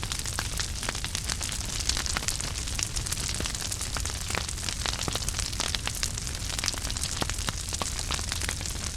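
Wood fire crackling in a fireplace: a steady hiss and low rumble of flames with many small irregular pops and snaps.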